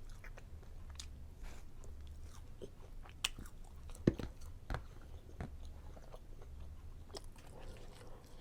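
A person chewing food close to the microphone: soft wet mouth clicks and smacks throughout, with a few sharper clicks about three to five seconds in.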